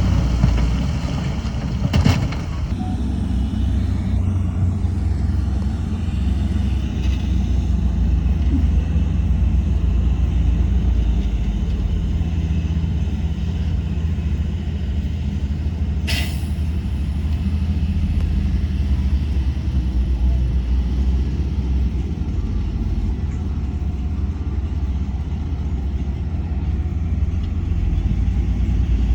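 Heavy diesel earthmoving machinery running steadily with a low drone. Two brief sharp noises stand out, one about two seconds in and one about sixteen seconds in.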